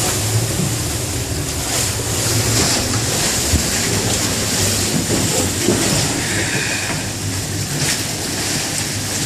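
Boat engine running steadily under wind and rushing water noise.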